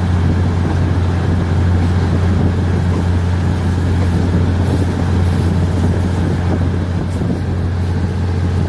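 Passenger train running along the track, heard from an open carriage window: a steady, loud low rumble with rushing wheel and air noise.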